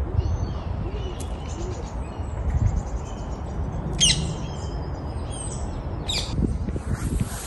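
Small birds chirping in the trees: scattered short high chirps, a quick trill about two seconds in, and sharp falling calls at about four and six seconds, over a steady low background rumble.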